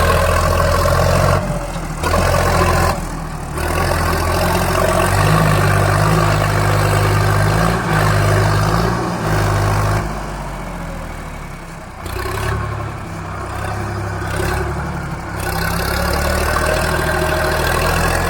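Tractor engine sound running steadily, its pitch shifting up and down in steps a few times.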